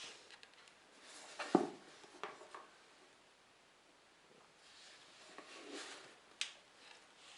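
Rustling and handling noises as packaging and heater parts are taken out of the box, with a knock about a second and a half in and a sharp click near the end.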